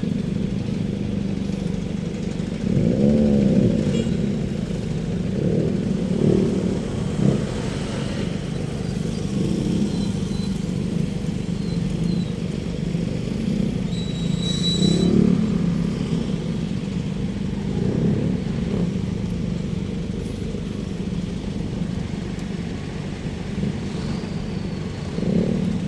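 Steady city road traffic: car and motorcycle engines running and passing, swelling and fading as each goes by, with a brief high-pitched tone about fifteen seconds in.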